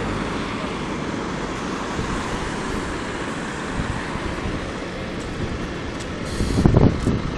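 Scania CN280UA articulated city bus running, a steady vehicle and road noise. Louder low rumbling surges come in near the end.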